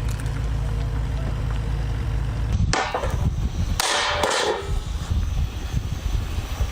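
A boat engine runs with a steady low drone. About three seconds in and again about four seconds in, two loud, harsh crackling noises break in.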